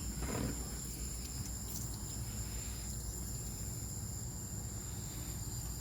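Crickets chirping in a steady high-pitched chorus over a low hum, with a soft knock about half a second in.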